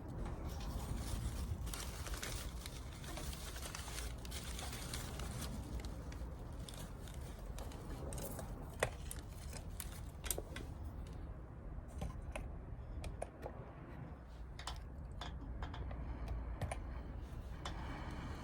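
Irregular sharp clicks and light scraping from small objects being handled, several coming in quick runs in the second half, over a steady low rumble.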